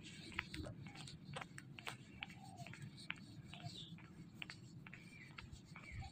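Faint park ambience: a few short, faint bird chirps scattered through it, with light ticks and scuffs.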